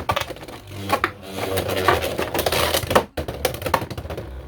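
Two Beyblade X spinning tops, Hells Scythe and Dranzer Spiral, whirring and clashing in a plastic stadium: a dense, rapid clatter of clicks and sharp knocks, with a brief lull about three seconds in.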